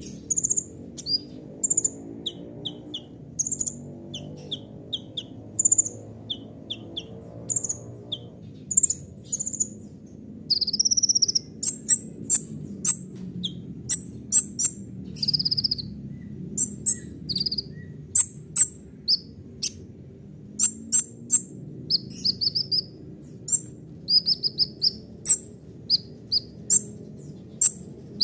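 A kolibri ninja (sunbird) singing a fast, varied song of short, sharp, high chirps and trills, interspersed with calls it has picked up from other birds, over a steady low hum. The song grows busier and denser about a third of the way in.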